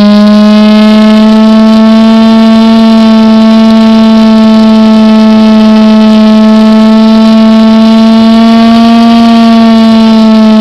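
Model airplane glow engine (a .46 two-stroke) running steadily at high revs, a loud buzz whose pitch wavers only slightly.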